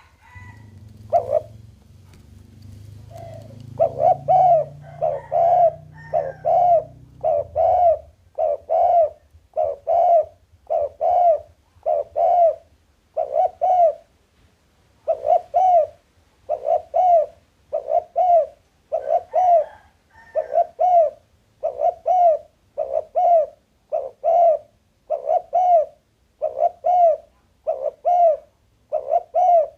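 Spotted dove cooing over and over: deep, even coo notes in quick succession, broken by short pauses about two seconds in and again near fourteen seconds. A faint low rumble lies underneath for the first several seconds.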